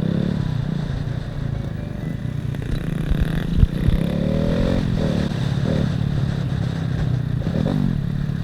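Motorcycle engine running, its pitch rising and falling several times as the throttle opens and closes. A few sharp knocks sound about three and a half seconds in.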